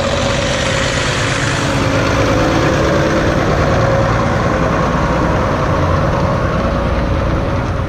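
A heavy vehicle engine running steadily at idle, with a held hum.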